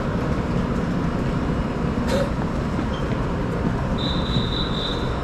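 Electric commuter train standing at the platform with its doors open, a steady rumble under the noise of boarding passengers. A sharp click comes about two seconds in, and a high, steady electronic beep starts about four seconds in.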